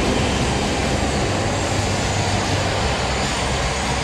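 E5 series Shinkansen train pulling away from the platform: a steady, loud whoosh of motors and wheels.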